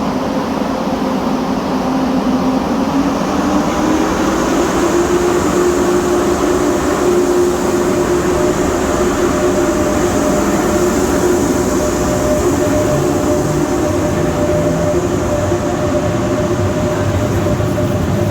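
High-speed electric train in the station with a steady running noise. A hum rises in pitch over the first few seconds, and a second, higher hum joins about six seconds in.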